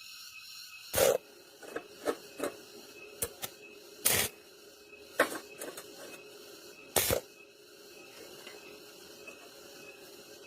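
A series of sharp knocks and clicks at irregular intervals over a steady background hum; the loudest come about a second in, four seconds in and seven seconds in, with quieter clicks between them.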